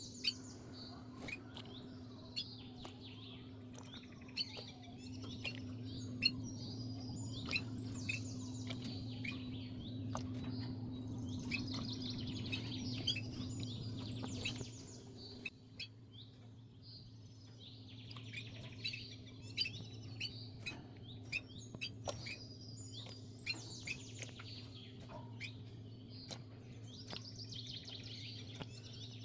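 Small birds chirping in repeated short trills over a steady low hum. The hum grows louder for several seconds and drops off sharply about halfway through, and short clicks come scattered throughout.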